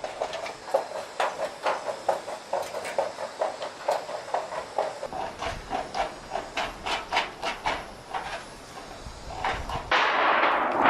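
A hand tool working metal in quick repeated strokes, about three a second, which fade off after about eight seconds. About ten seconds in, a loud steady hiss starts up.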